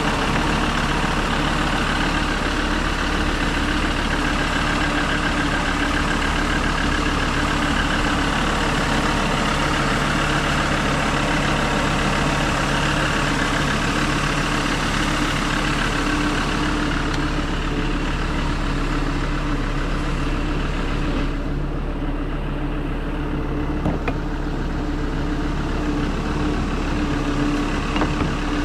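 Ford Transit's 3.2-litre five-cylinder turbodiesel idling steadily while it warms up after a cold start at −7 °C. A higher hiss over the engine drops away about three-quarters of the way through.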